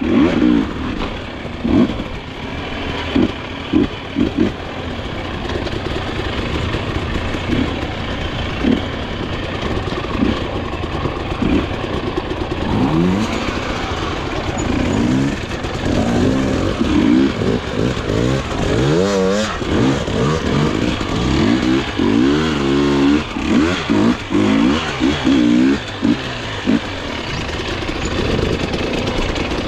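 Dirt bike engine revving in repeated throttle bursts, its pitch rising and falling again and again, with the revving quickening in the second half.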